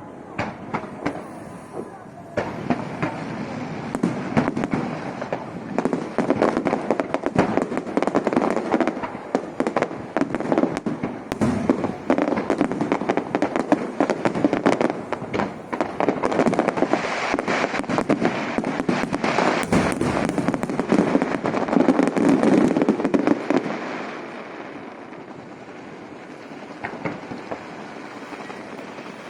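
Aerial fireworks: a dense barrage of bangs and crackling that starts about two seconds in, then thins to scattered pops near the end.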